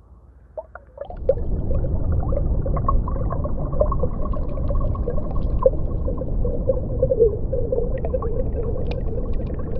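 Underwater sound: a steady low rumble that starts about a second in, with scattered clicks and faint wavering squeaks over it.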